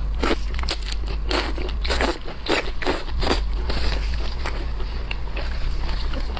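Close-miked crunching and chewing of shell-on seafood such as shrimp: a quick run of about ten crisp crunches over the first few seconds, then softer chewing.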